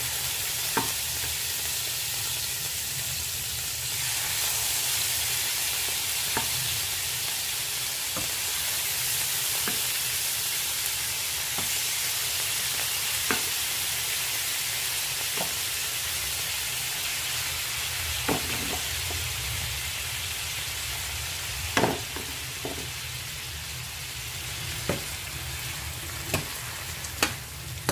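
Chicken livers frying in hot oil in a nonstick frying pan: a steady sizzling hiss, with occasional sharp clicks and taps scattered through it.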